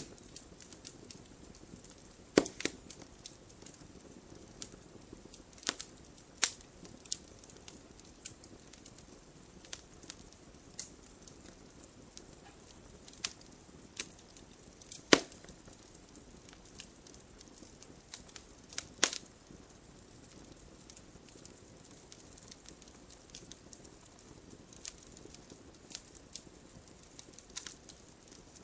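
Wood fire crackling: irregular sharp pops and snaps over a low, steady rush of burning, with the loudest pops about 2, 15 and 19 seconds in.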